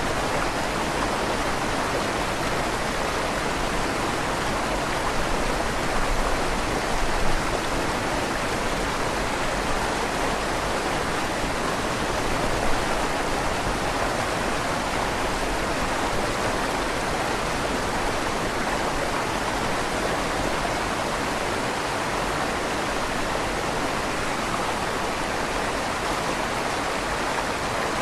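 River water flowing steadily under a stone bridge, a dense even rush with a slight echo off the stone tunnel walls.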